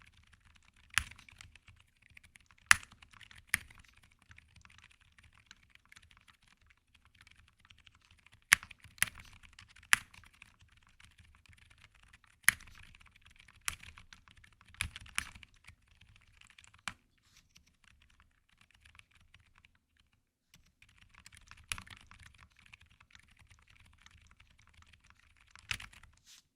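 Typing on a Jris65 R2 custom mechanical keyboard with Wuque Silent switches, an aluminium plate and GMK keycaps: a soft, continuous patter of muted keystrokes, punctuated every second or two by louder, sharper clacks.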